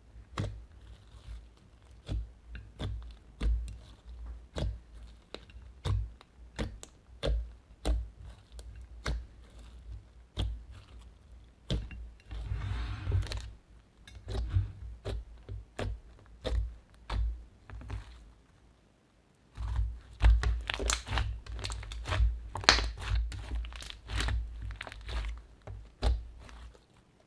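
Slime being kneaded and pressed by hand: a run of irregular sticky pops, crackles and soft thumps. It pauses briefly about two-thirds through, then comes back in a denser run of pops.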